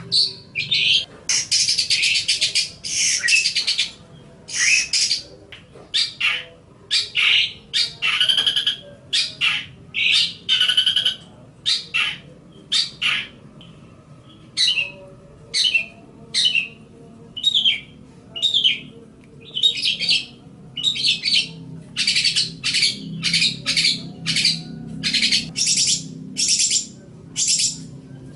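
Long-tailed shrike (cendet) singing: a steady run of short, harsh chattering phrases, one after another with brief gaps between them.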